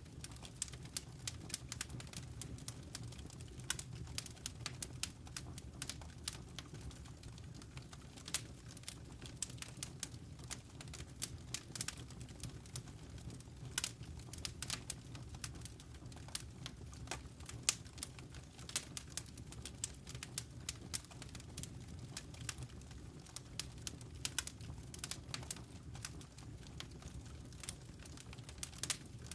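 Wood fire crackling in a fireplace: frequent, irregular sharp snaps and pops over a steady low rumble of the flames.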